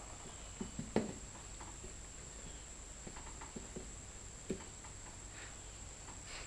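Faint handling noises: scattered light taps and scrapes, the clearest about a second in and another a little past the middle.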